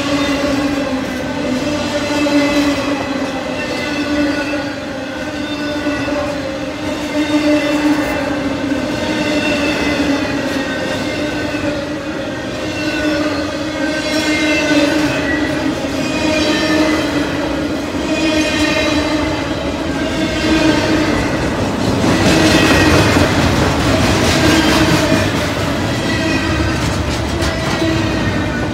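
Intermodal freight train cars rolling past at speed: a steady roar of steel wheels on rail with a steady pitched whine running through it, growing louder and rougher about three quarters of the way in.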